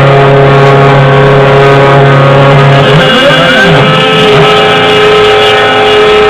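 CNC-3040AL desktop milling machine cutting aluminium: a loud, steady whine of several pitches from the spindle and cut, with pitches gliding up and down about three seconds in as the stepper-driven axes speed up and slow down.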